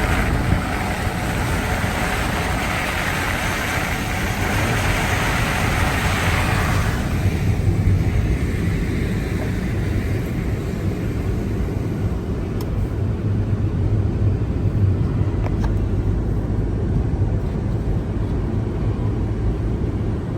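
Car interior noise while driving on snowy roads: a steady low engine and road rumble, with a higher hiss that drops away about seven seconds in.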